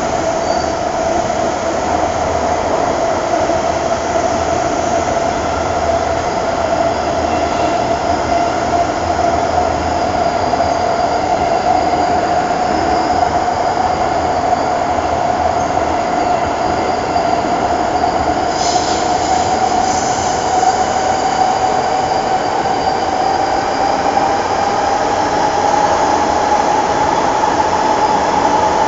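First-generation MTR M-Train electric multiple unit running, with a steady rumble and a high whine that slowly rises in pitch. Two brief clicks come about two-thirds of the way through.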